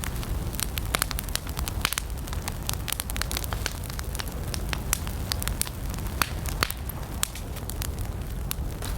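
Wood campfire burning with irregular sharp crackles and pops over a steady low rumble of the flames.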